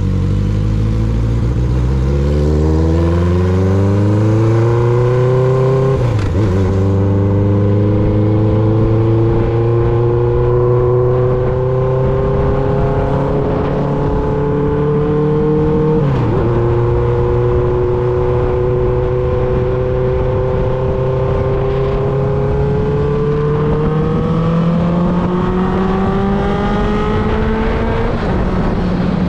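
1995 Honda CB750 Nighthawk's air-cooled inline-four running through a Vance & Hines 4-into-1 exhaust under way. The engine note climbs steadily, drops sharply at an upshift about six seconds in and again about sixteen seconds in, then climbs slowly again.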